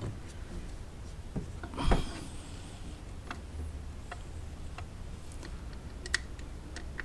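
Scattered light clicks and taps of tools and parts being handled while coil packs are swapped, with one louder clunk and a brief scrape about two seconds in.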